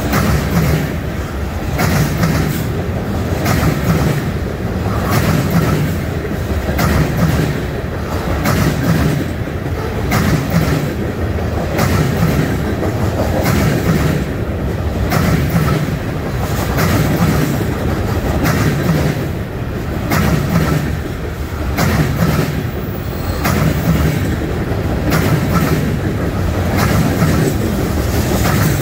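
A freight train's high-sided trash cars rolling past close by: a steady run of steel wheels on rail with a regular clickety-clack as the wheels pass.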